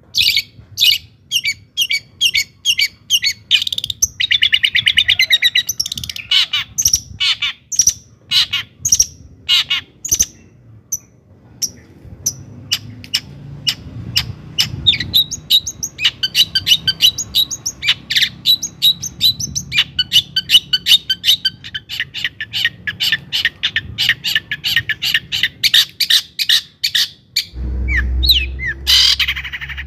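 Long-tailed shrike singing a fast, varied song of sharp repeated notes and rapid trills with short pauses. A low rumble comes in about two seconds before the end.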